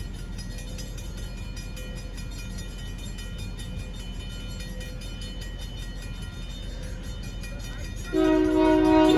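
A diesel locomotive running steadily with a low rumble. About eight seconds in, its horn begins sounding loudly.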